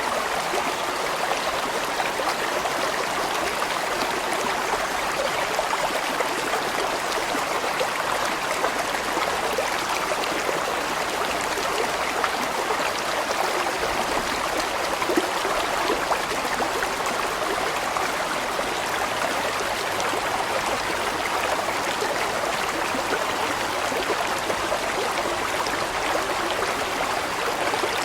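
A large stream running over rocks, a steady, continuous rush of water with splashing and gurgling.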